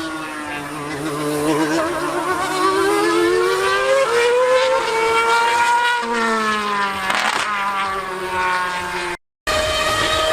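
High-revving racing engine running hard, its pitch rising and falling several times, with a sudden jump about six seconds in and a brief dropout near the end.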